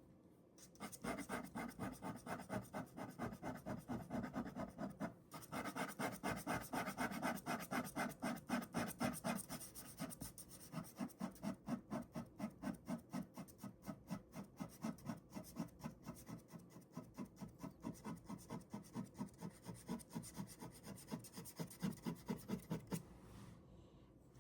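Ballpoint pen drawing on paper with fast back-and-forth shading strokes, several a second, pausing briefly twice.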